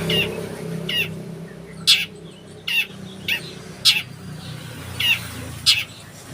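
A songbird giving short, sharp sparrow-like chirps, about nine in a row at a fairly even pace, over a low background rumble.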